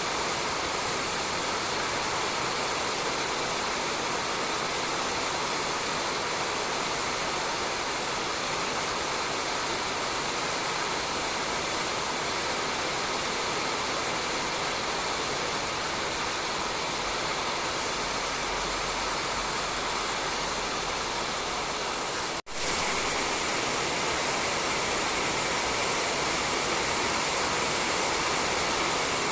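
Steady rain falling on a roof, an even hiss. About three quarters of the way through it cuts out for an instant and resumes slightly louder and brighter.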